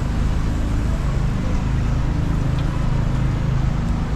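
Busy city street ambience: a steady low rumble of road traffic with no distinct events.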